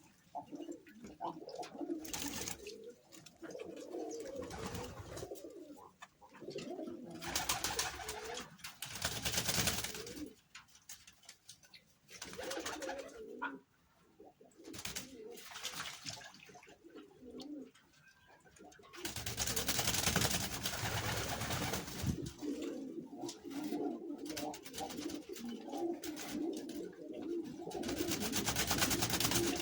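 Domestic pigeons cooing repeatedly, with stretches of noise across the calls that grow louder and longer in the second half.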